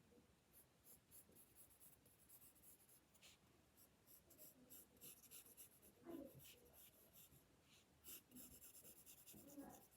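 Faint scratching of a drawing tool on paper: many short, irregular strokes as a picture is sketched.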